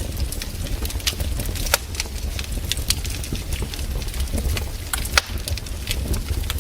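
Campfire crackling: irregular sharp pops and snaps of burning wood, several a second, over a steady low rumble, with one louder pop about five seconds in.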